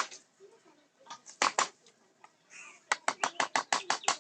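Mallet striking a carving chisel into teak wood: single taps, then a quick even run of about seven strikes a second near the end.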